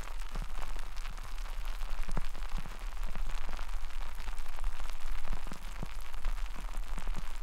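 Carbonated light beer (Michelob Ultra Pure Gold) fizzing close to the microphone: a dense, irregular crackle of many tiny bubbles popping.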